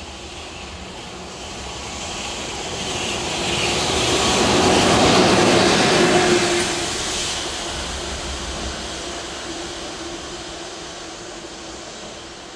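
Electric freight locomotive passing on the track, its wheel and motor noise swelling to a peak about five seconds in and then fading away.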